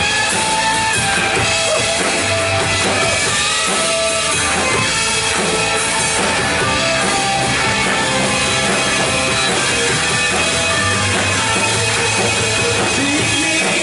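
Full band music with drum kit and electric guitar playing steadily, an instrumental stretch of a worship song.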